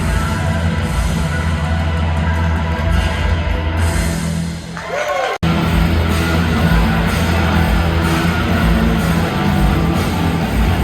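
A live rock band playing loud amplified music with electric guitar and drums. The music breaks off for an instant about halfway through and then carries on.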